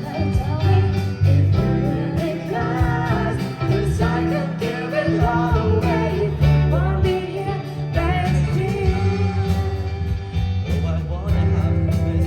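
A band playing a song: a voice singing a wavering melody over guitar, bass and a steady drum beat.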